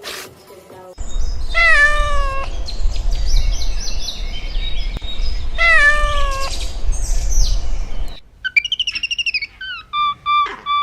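A cat meowing twice, a few seconds apart, over a loud low rumble, followed by a run of short, high chirps.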